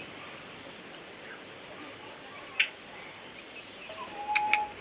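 Birds calling: faint chirping throughout, one sharp short call about halfway through, and near the end a brief steady note with two sharp calls over it.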